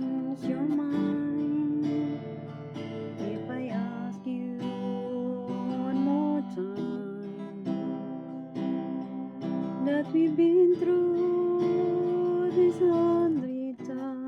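Acoustic guitar strumming chords, with a held melody line gliding between notes over it.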